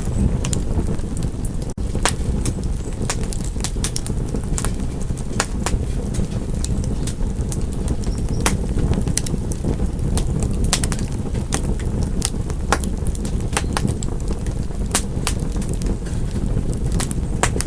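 Wood fire crackling: irregular sharp pops and snaps over a steady low rumble of burning, with a momentary drop-out about two seconds in.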